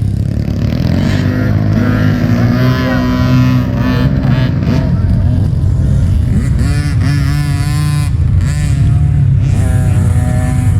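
Several dirt bike engines running on the track, revving so that their pitch rises and falls over a steady low drone.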